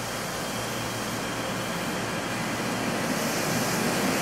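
Electric commuter train running alongside the platform, a steady mechanical noise growing gradually louder as it approaches.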